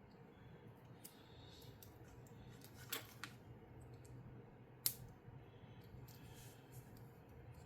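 Plastic Lego pieces being handled and pressed together: faint rustling with two sharp clicks, one about three seconds in and a louder one about two seconds later.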